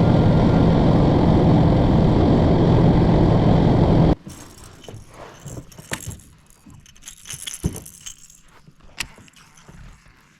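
Boat running under its motor at speed: a loud steady rush with a low hum that cuts off suddenly about four seconds in. After it come quiet scattered clicks and light rattles.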